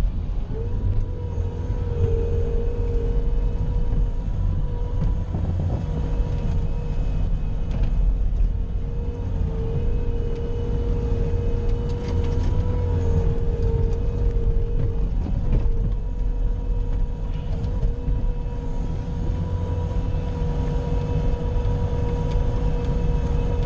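Bobcat skid-steer loader's engine running steadily under load while it pushes snow with its plow, with a steady whine over the rumble that wavers slightly in pitch.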